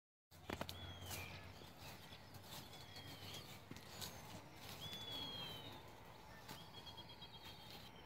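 Outdoor ambience with wild birds calling: short whistled calls that curve down in pitch, repeated every second or two, and one longer falling whistle. A few sharp clicks are mixed in. It all starts a moment in.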